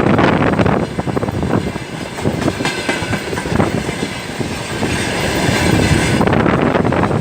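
Freight train of tank wagons rolling past, the wheels clicking rapidly over the rail joints.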